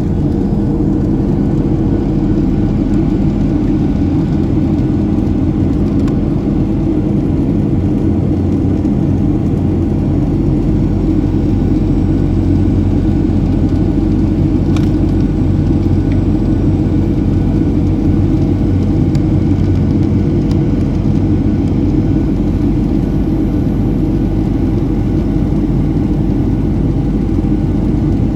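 Steady cabin noise inside a Boeing 737-700 in flight: its CFM56-7B jet engines and the airflow over the fuselage make a constant low rumble, with a few faint steady tones above it.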